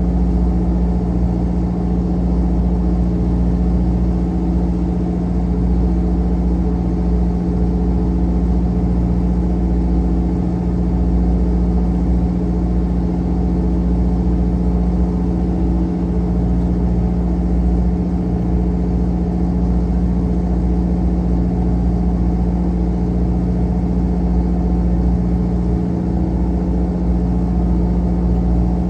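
Fishing boat's engine running steadily at constant speed: a deep, even hum with a low rumble.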